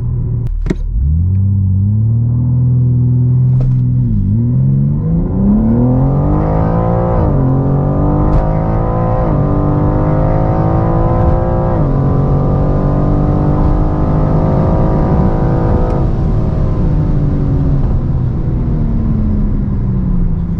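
BMW M4 Competition (G82) twin-turbo straight-six heard from inside the cabin on a launch-control start: the revs are held steady for a few seconds, then the car launches and the engine climbs through the gears, with a sudden drop in pitch at each of several quick upshifts. Near the end the revs fall away steadily as the driver lifts off after the run.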